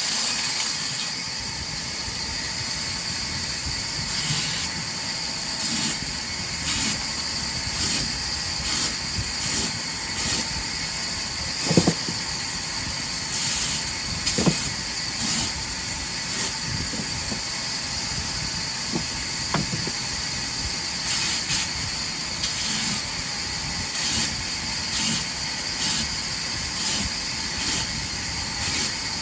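Sawmill wood-cutting machine running: a steady high-pitched hiss that swells in a regular rhythm about once a second, with a few sharp knocks.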